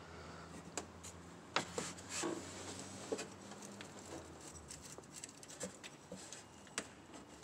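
Faint scattered clicks and rubbing of hands working the spark plug wire boots off a Hummer H2's engine by hand, with a faint low hum that stops about halfway through.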